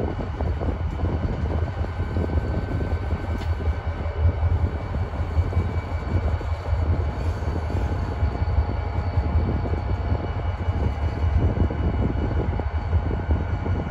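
A train running by: a steady low rumble with a few faint, steady whining tones above it.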